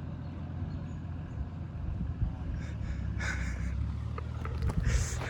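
Four-wheel drive's engine running at low revs, a steady low rumble as it crawls over the dirt humps. Two short hissing noises stand out over it, about three and five seconds in.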